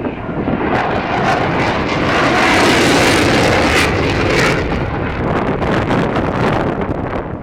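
Eurofighter Typhoon jet fighter flying past, its twin jet engines' roar swelling to a peak about three seconds in and then fading.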